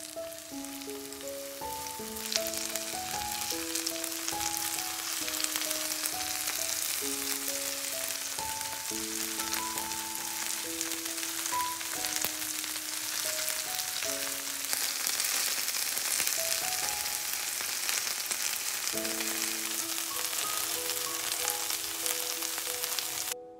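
Zucchini, potato and carrot patties frying in sunflower oil in a pan: a steady sizzle that grows louder about two seconds in and stops suddenly near the end. Background music with held notes plays throughout.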